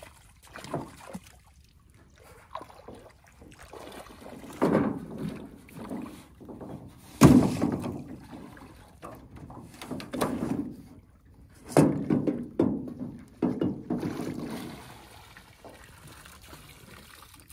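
Irregular knocks and thumps in a small river fishing boat as people move about and handle gear, the loudest about 7 and 12 seconds in, with faint water lapping and hiss after about 15 seconds.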